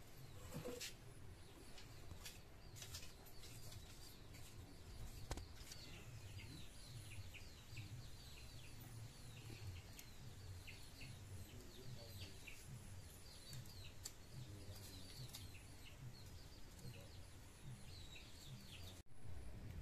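Small birds chirping repeatedly, many short falling chirps, over a faint low rumble, with a few sharp clicks.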